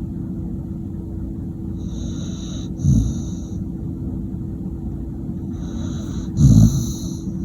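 Pit bull snoring in its sleep: airy breaths with two loud, deep snores, about three seconds in and again near the end, over a steady low hum.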